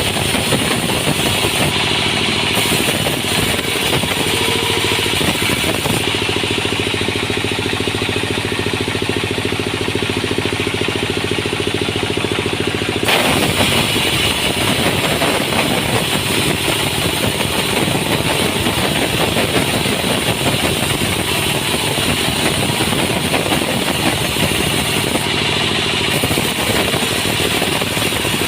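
Engine-driven sawmill machinery running steadily, with a hissing, saw-like noise over the engine hum. The sound changes abruptly about thirteen seconds in.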